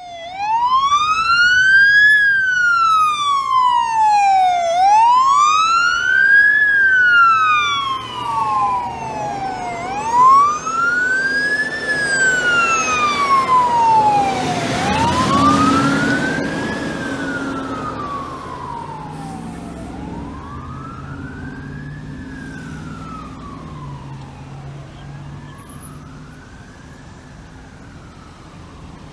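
Fire engine siren wailing, rising and falling in pitch about every five seconds. Around the middle a rush of engine and road noise passes, and the wail then fades steadily into the distance.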